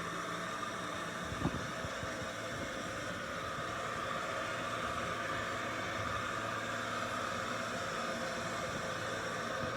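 Robot vacuum cleaner running, a steady whir of its suction fan and brush motors, with a single knock about a second and a half in.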